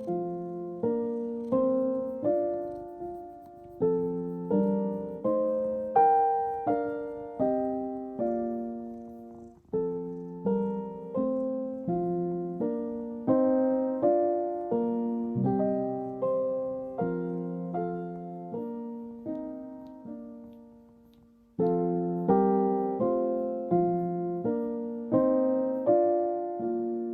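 Background piano music: a slow melody of single struck notes, each dying away. It fades out about twenty seconds in and starts again a second or so later.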